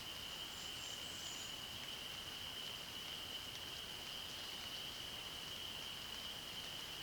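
A steady, high-pitched trilling chorus of calling animals, unbroken throughout, with a few faint, brief high notes about a second in.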